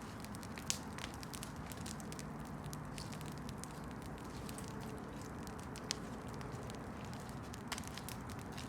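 Campfire burning: a steady low rush of flame with scattered crackles and pops of burning wood, the sharpest pops about a second in and again near six seconds.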